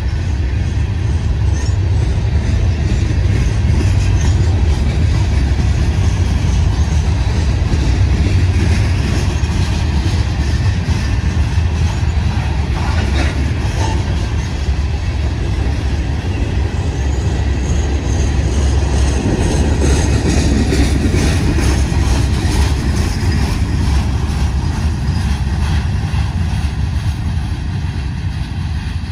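Herzog ballast hopper cars of a freight train rolling past: a steady low rumble of steel wheels on rail, with scattered clicks and a faint high wheel squeal at times. It eases a little near the end as the last cars go by.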